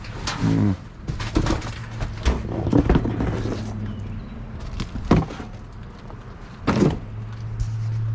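Rummaging through a dumpster full of discarded goods: irregular knocks, clunks and clatters as items are moved and shifted, over a steady low hum.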